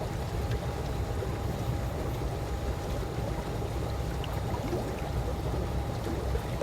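Calm swimming-pool water lapping and sloshing gently, a steady low wash with faint small ticks of water. A faint steady hum runs underneath.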